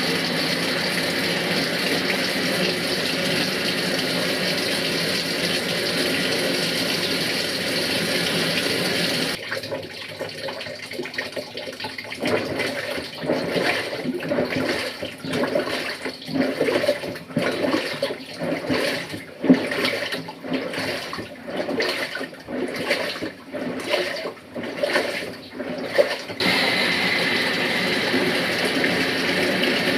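Panasonic NA-FA100H3 washing machine filling its tub with a steady rush of water. About nine seconds in the rush gives way to uneven sloshing and churning, with short swells in quick succession. Near the end the steady rush of inflowing water comes back.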